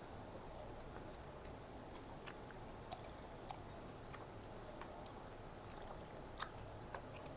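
A person chewing food quietly, with a few sharp clicks scattered through, the loudest about six and a half seconds in.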